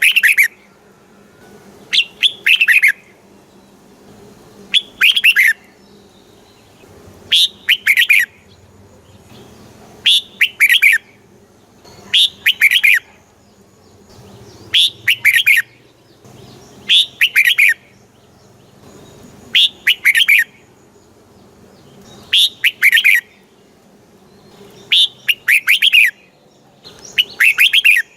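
Red-whiskered bulbul singing: a short phrase of several quick notes, repeated about every two and a half seconds.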